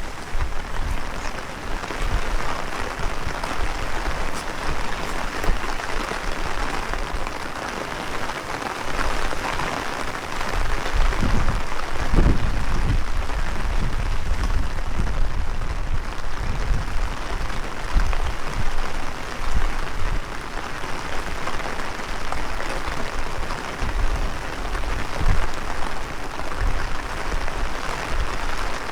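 Heavy rain falling steadily, with gusts of wind buffeting the microphone in irregular low rumbles.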